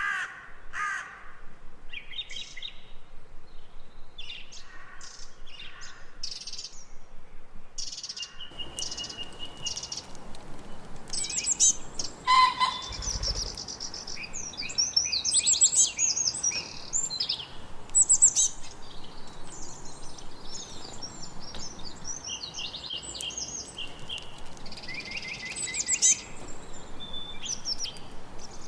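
Several songbirds chirping and singing over one another in quick, repeated high notes and trills, with a lower, harsher crow-like call right at the start.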